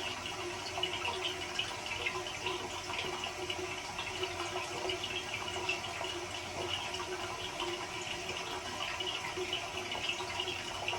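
Steady sound of running or gurgling liquid, continuous with no breaks.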